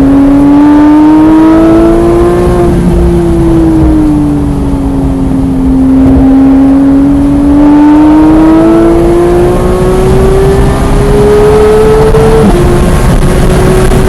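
Porsche 991.1 911 GT3's 3.8-litre flat-six running hard at high revs on track. The engine note climbs, eases down for a few seconds, then climbs again for several seconds and steps down at a quick upshift near the end before rising again.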